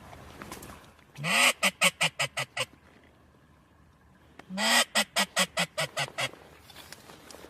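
Two loud series of duck quacks in the descending cadence of a mallard hen's hail call: each opens with a long quack and runs on into six or seven short quacks that grow weaker. The first series comes about a second in, the second about four and a half seconds in.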